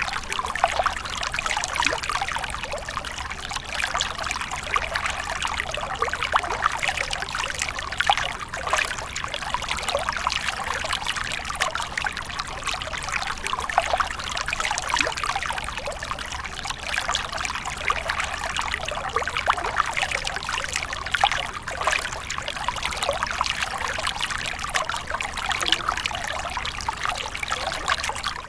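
Water splashing and trickling steadily, with many small irregular splashes.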